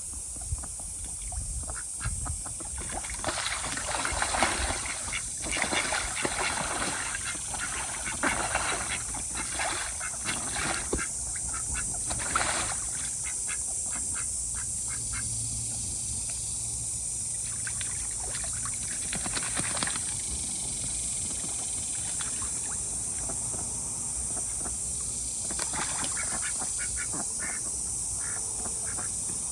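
Ducks quacking in repeated short calls, busiest in the first half and sparser later, over a steady high-pitched insect drone.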